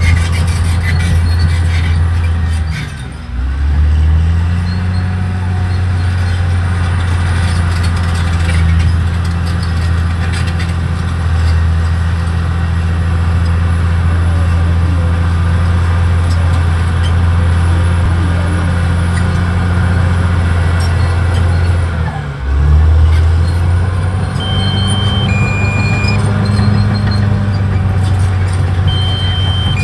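Caterpillar D6R XL bulldozer's diesel engine running under load, a steady deep engine note that dips briefly and picks back up twice, about three seconds in and about two-thirds of the way through.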